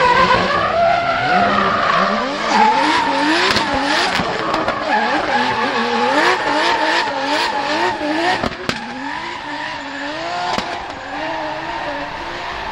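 Drift car engine revving hard, its pitch surging up and dropping back over and over as the throttle is worked, over the hiss of tyres skidding.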